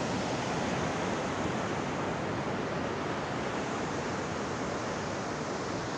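Steady rushing of fast-flowing river water, an even roar with no change.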